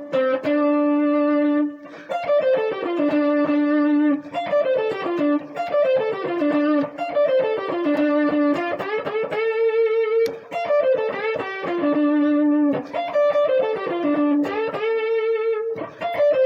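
Guitar playing a blues lick solo: quick falling runs of notes alternating with long held, bent notes that waver with vibrato.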